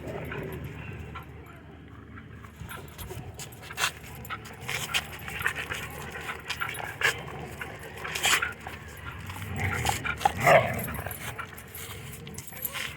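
Dogs at play panting, with scattered short barks and yips and a louder bark about ten and a half seconds in.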